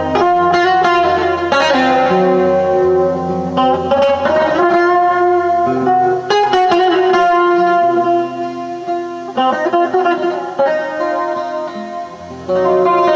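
Instrumental music: a guitar played through effects over a low, held bass, the notes changing every second or two. It drops quieter for a few seconds near the end, then comes back in full.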